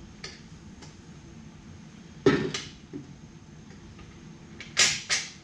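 Hard objects knocking and clanking together with a metallic ring: one sharp knock a little past two seconds in, a lighter one soon after, then two loud clanks close together near the end.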